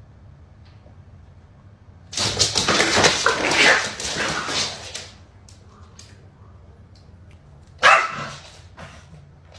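Dog barking: a loud outburst of about three seconds starting some two seconds in, then one short sharp bark near the end.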